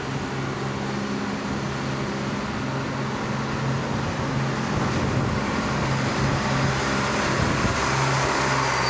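Diesel train engine running with a low steady hum, growing gradually louder, with a faint high squeal near the end.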